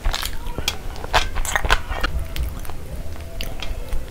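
Close-miked chewing of a mayonnaise-dipped cucumber slice: wet, crisp crunches, thickest in the first two seconds, then sparser chewing.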